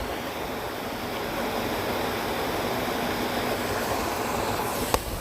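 Steady rushing of a waterfall, an even wash of water noise, with one sharp click near the end.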